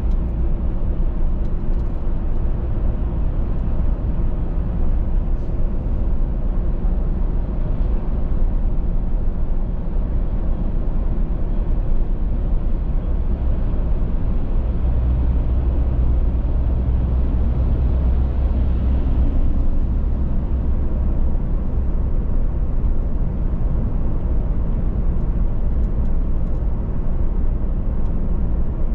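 A car driving at speed on a highway: steady low rumble of tyre and engine noise, which swells for a few seconds about halfway through.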